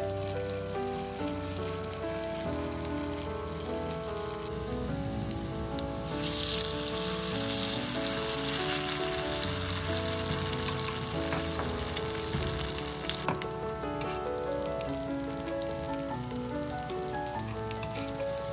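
Shredded potato, carrot and onion pancakes sizzling in hot oil in a frying pan. The sizzle gets louder from about six seconds in until about thirteen seconds. Background music plays underneath throughout.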